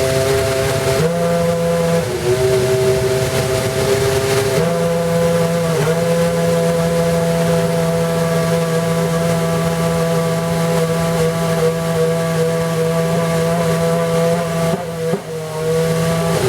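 McLaren Formula One car engine running at steady, held revs, with the engine note jumping to a new pitch a few times rather than sweeping up and down.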